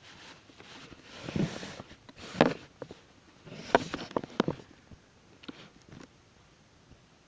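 A handful of knocks and clatters mixed with short rustles, the loudest in the first half, a couple of fainter knocks about five and a half to six seconds in, then quiet.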